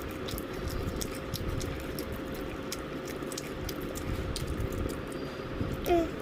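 Crunchy chewing of fried chicken: irregular small crackling clicks over a steady background hum. Near the end comes one short, slightly falling voiced sound, the loudest moment.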